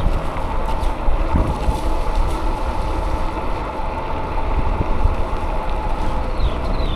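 Wind buffeting the microphone of a moving bicycle, with a steady faint whine under it that fades out about six seconds in. Three short, quick falling chirps come near the end.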